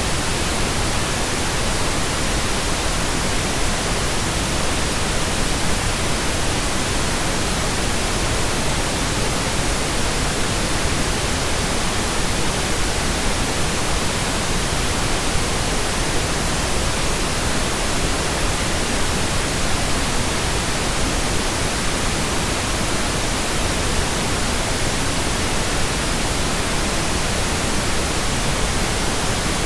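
Steady, synthetic pink noise, an even hiss spread across the whole range with no changes.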